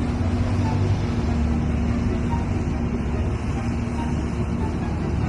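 A steady low mechanical rumble with a constant low hum underneath.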